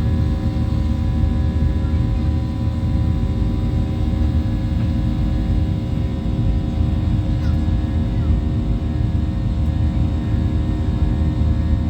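Steady cabin noise of a Boeing 737-800 in flight: a constant low roar of the jet engines and airflow, with a steady hum of several tones over it.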